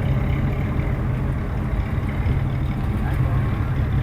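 Car engine running at low speed as it rolls past, a steady low rumble.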